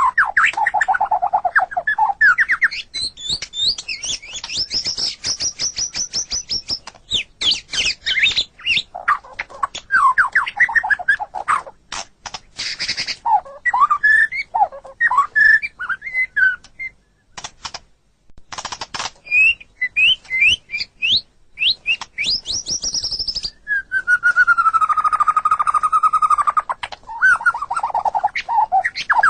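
White-rumped shama (murai batu) singing a varied, continuous song of rapid trills, chattering notes and gliding whistles. It breaks off briefly past the middle, and a long steady whistle comes a few seconds before the end.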